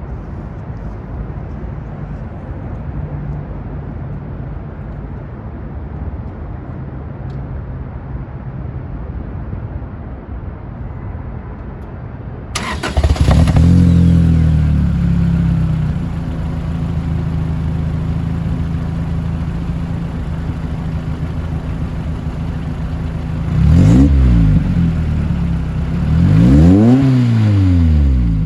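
Lotus Elise engine starting about twelve seconds in after a steady low hum: a short crank, then it catches and settles into a fast idle. Near the end it is revved twice, the pitch rising and falling each time.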